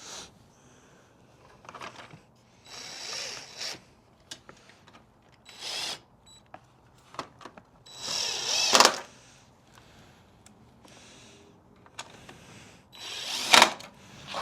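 A cordless power drill or driver run in four short bursts of about a second each, with small clicks and knocks between them.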